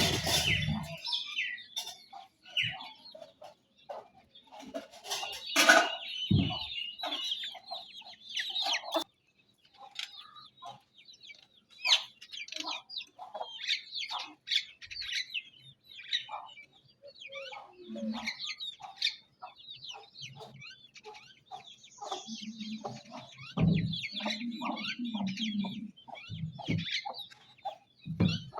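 Chickens feeding: many short, high-pitched peeps from chicks run throughout, with hens clucking. A run of low clucking comes in the last few seconds.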